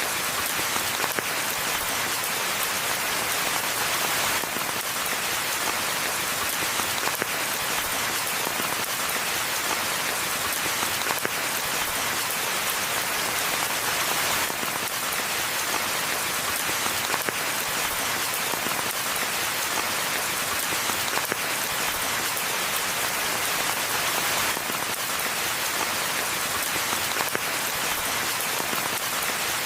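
Steady rain falling in a forest: an even, unbroken hiss of many drops, with no thunder.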